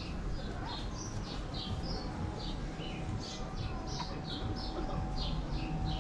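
Small birds chirping over and over, several short high chirps a second, over a low street rumble.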